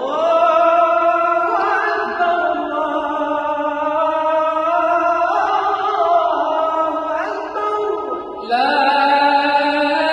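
Islamic religious chanting by one voice, holding long ornamented notes; about eight seconds in, the voice slides down and breaks off, then starts a new held phrase.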